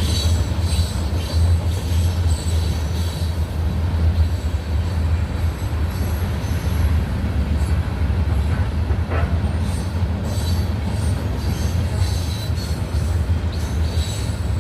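Freight train rolling past with a steady low rumble, with thin high-pitched wheel squeal and faint clicks coming and going over it.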